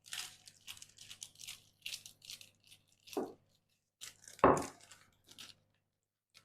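Parchment paper crinkling and rustling under a rolling pin as dough is rolled out between two sheets, in a run of short irregular scrapes, the loudest about four and a half seconds in.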